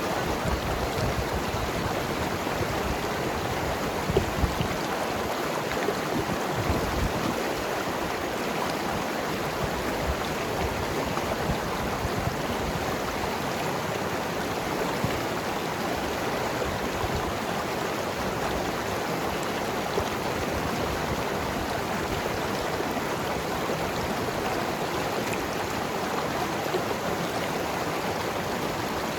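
Mountain river flowing and tumbling over rocks: a steady rush of water with gurgling and a few small splashes.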